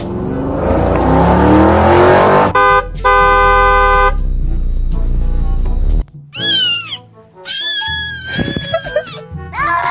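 Meme sound effects: a car engine revving up, then a car horn honking, a short toot and a longer blast. Then a cat meowing several times.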